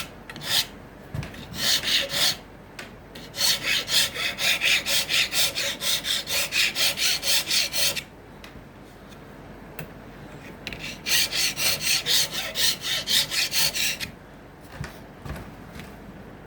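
Hand abrading of acacia wood in rapid back-and-forth strokes, about three or four a second, shaping a small comb blank. It comes in two runs of several seconds with a pause between them, after a few single strokes.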